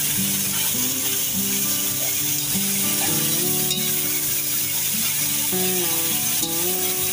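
Marinated chicken pieces sizzling steadily as they fry on a hot, flat iron tawa, with a couple of light clicks from a metal utensil turning them. Background music with a melody plays underneath.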